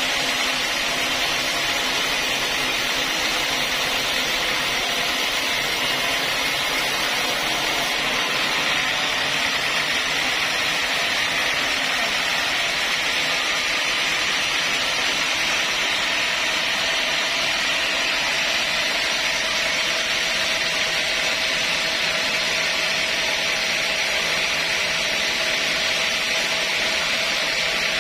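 Sawmill saw running steadily through a mahogany log, a continuous even noise with no breaks or pauses.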